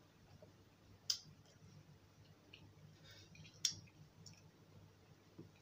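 Soft chewing and mouth sounds of someone eating close to a clip-on microphone, with two sharp wet clicks, about a second in and about three and a half seconds in.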